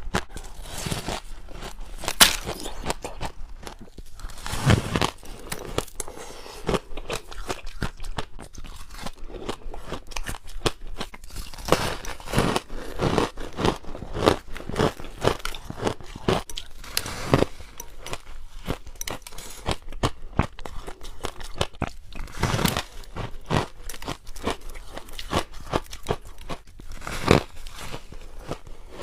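A person biting and chewing freezer frost ice close to the microphone: a continuous, irregular run of crisp crunches, with a few louder bites standing out.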